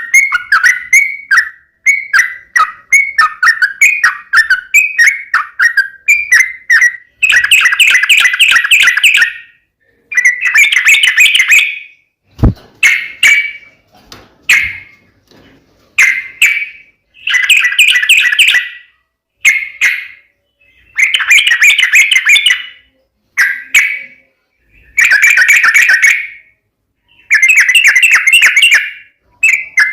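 Yellow-vented bulbul (trucukan) singing loudly: short bubbly calls at first, then a run of rapid chattering phrases, each about two seconds long, a second or two apart. A single sharp click about twelve seconds in.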